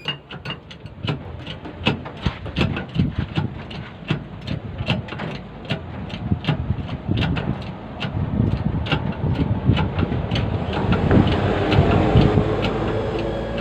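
Repeated sharp knocks, several a second, as tools work on a large truck tyre stuck on its rim, over a running engine that grows louder in the second half.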